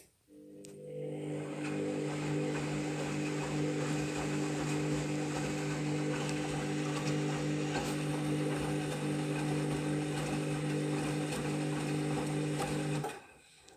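Candy washing machine running mid-cycle: a click, then a steady motor hum with water rushing and sloshing, stopping abruptly near the end.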